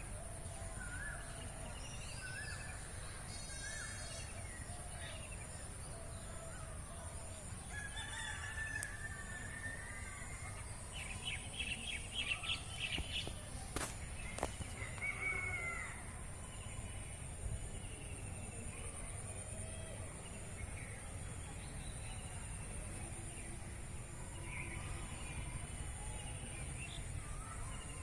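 Assorted wild birds calling and chirping, short whistled notes scattered throughout with a quick run of rapid notes around the middle, over a steady high-pitched hiss and a low rumble.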